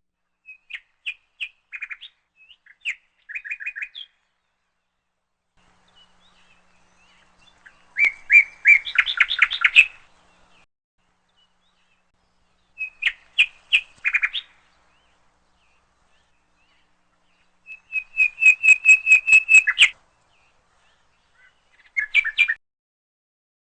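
A bird calling in bursts of quick, high chirps, about five phrases of several notes each, separated by silence.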